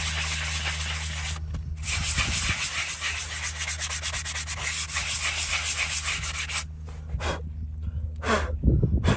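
Abrasive sanding over a steady low hum. It breaks off briefly about a second and a half in and stops about seven seconds in, followed by a few separate knocks.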